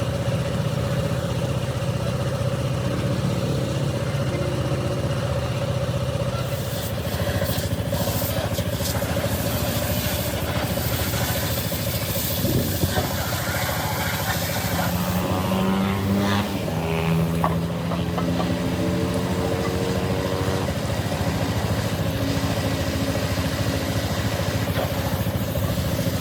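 An engine running steadily, with pitch-shifting sounds that come and go around the middle.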